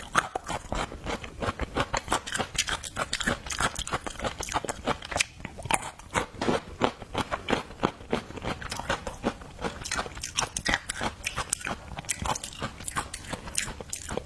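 A person chewing and crunching food close to the microphone, a steady stream of wet crunches and mouth clicks several times a second.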